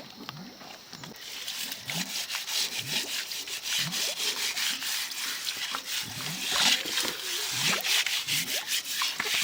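Rapid, repeated scraping or rubbing strokes, starting about a second in and keeping up a steady rhythm.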